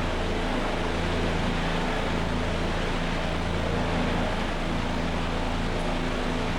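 A motor running steadily: an even hiss over a low hum that holds the same level without changing.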